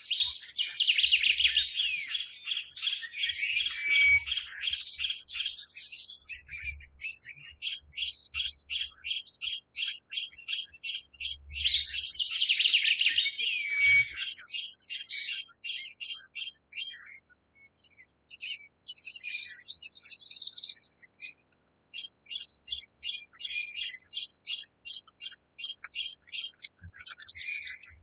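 Small birds chirping: long runs of quick, evenly spaced high chirps, with louder bursts of dense twittering about a second in and again around twelve seconds in.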